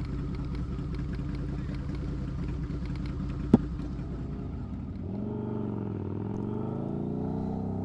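Harley-Davidson V-Rod's V-twin engine running steadily under the rider, with a single sharp click about three and a half seconds in. From about five seconds in, the engine pitch rises and falls as the bike accelerates and changes speed.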